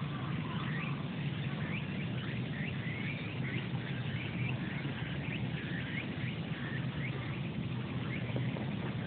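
Small birds chirping in many short, quick calls, most of them in the first half, over a steady low rumble.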